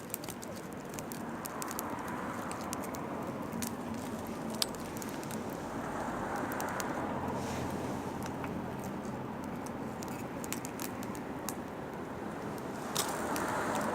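Firewood burning in an open fire, crackling with many irregular sharp pops. Underneath is a rushing noise that swells and fades a few times.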